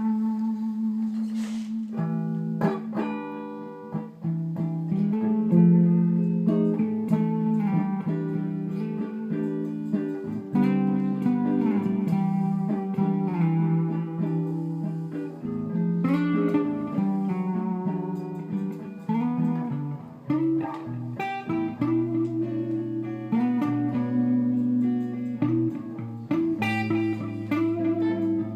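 Guitar music: a run of plucked guitar notes over sustained low notes.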